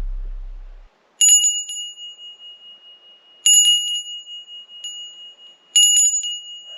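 A small metal hand bell rung three times, a couple of seconds apart; each stroke gives a bright, high clang whose tone keeps ringing between the strokes.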